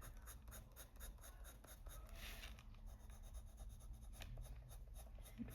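Faint scratching of a Polychromos colored pencil on paper in quick, short, repeated flicking strokes, laying down darker pink shading.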